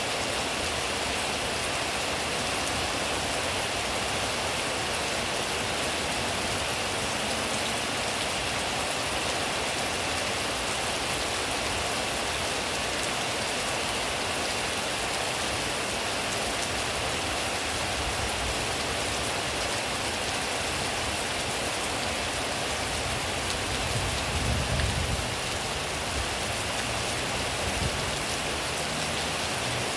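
Steady rain falling on surfaces, a dense, even hiss of drops. A brief low rumble swells up and fades toward the end.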